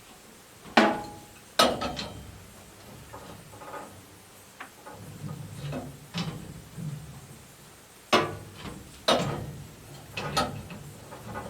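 Tools and hose fittings being handled while a compression fitting is tightened: sharp metallic clicks and knocks, about six loud ones spread unevenly, with smaller rattles between.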